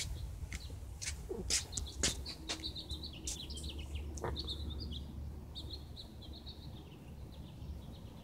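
A songbird twittering in a rapid, high warble for several seconds, with sharp clicks and chips scattered through, over a low steady rumble.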